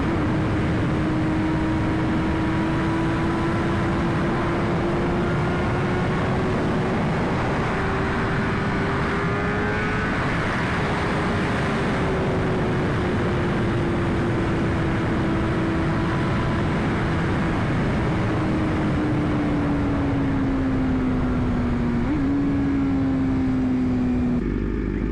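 BMW S1000RR inline-four engine running at a high, steady pitch at speed. The pitch climbs slowly for about ten seconds, then sinks gradually, with a brief blip near the end. Heavy wind rush on the helmet-mounted microphone covers it and eases off just before the end.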